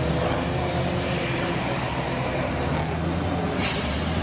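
Heavy truck engine running steadily under load. A sharp hiss starts near the end.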